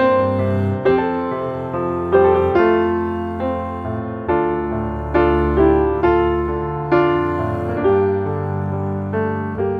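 Background piano music: a slow melody of struck notes and chords, a new one roughly every half second to a second, each ringing and fading.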